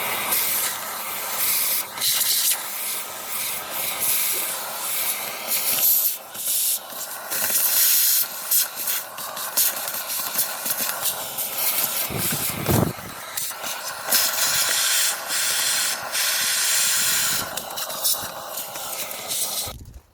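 Vacuum cleaner running, its nozzle sucking debris out of a car's air filter box. The rushing suction noise rises and falls as the nozzle moves, and the cleaner cuts off just before the end.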